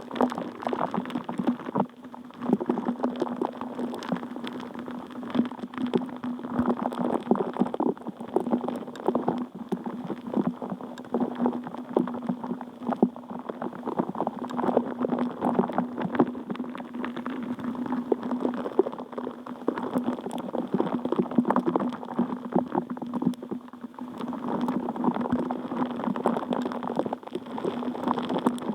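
Water bubbling and gurgling in a continuous stream of small pops over a steady low hum.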